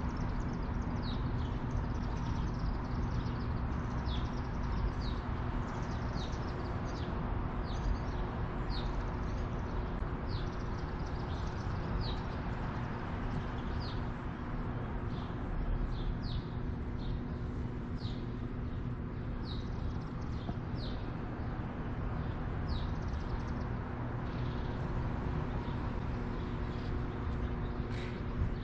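A flock of small birds, which the owner takes for barn swallows, giving short high falling chirps about once a second while they wheel about hunting midges. Under the chirps runs a steady low hum and rumble.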